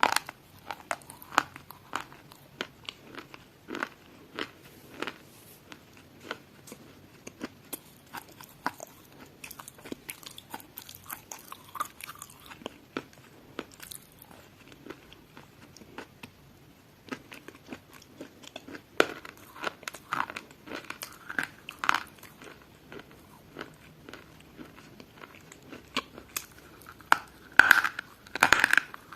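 Crisp, irregular crunches and crackles of something brittle being broken, a few a second, growing denser and louder near the end.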